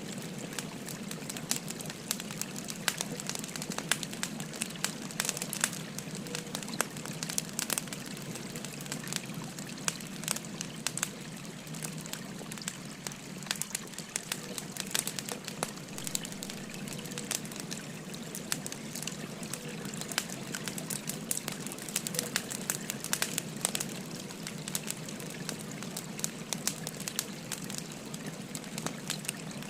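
Burning firewood crackling with many sharp pops, over a steady babbling stream.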